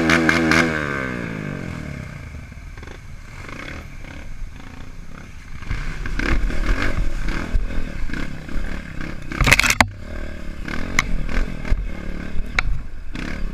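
Trail motorcycle engine revved, its pitch falling away over the first second or so, then running with an uneven low rumble and clatter. A sharp loud knock comes about nine and a half seconds in.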